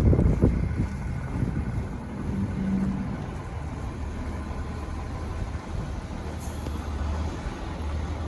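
Low, steady engine rumble of city traffic in a snowstorm, with wind buffeting the microphone in the first moment.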